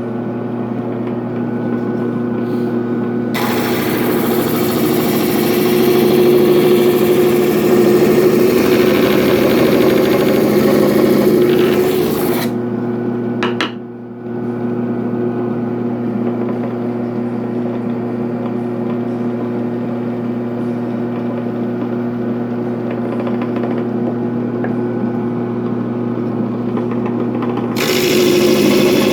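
Homemade drum sander driven by a washing-machine motor, running with a steady hum. From about three seconds in to about twelve seconds, and again near the end, a loud hiss of sanding comes in as work is pressed against the sanding drum.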